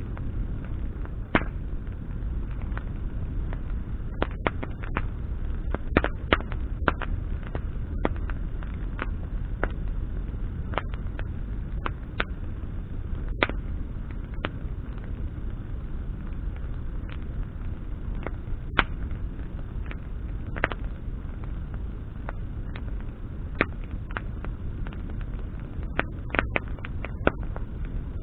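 Bonfire of burning branches crackling: irregular sharp pops and snaps, some louder than others, over a steady low rumble.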